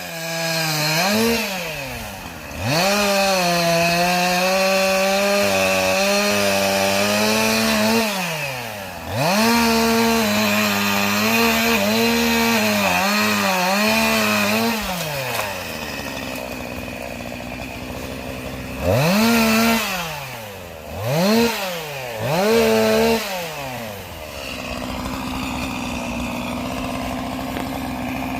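Two-stroke chainsaw cutting oak logs: the engine is held at full throttle through two long stretches, wavering in pitch under load, then drops to idle with three short throttle blips before settling into a steady idle near the end.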